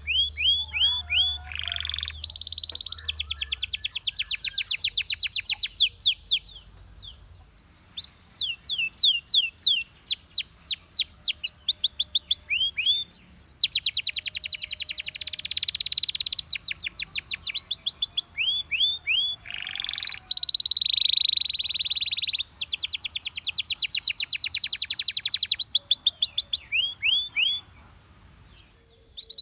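Belgian canary singing: a run of fast trilled phrases, each a rapid string of repeated sweeping notes, with short breaks between phrases and longer pauses about six seconds in and near the end.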